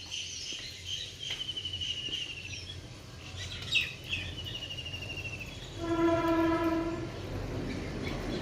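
Birds chirping in rapid high trills, twice. About six seconds in, a horn sounds one steady note for just over a second, louder than the birds, and a low rumble of passing rail or road traffic follows.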